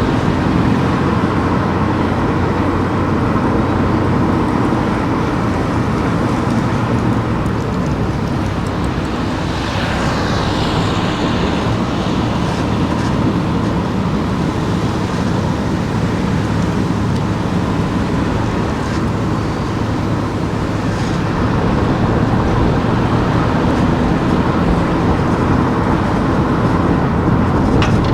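Steady engine and road noise of a car driving through town streets, with a brief rise of hiss about ten seconds in.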